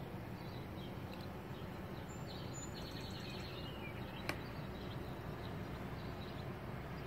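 Steady low background noise with scattered small bird chirps and one sharp click about four seconds in.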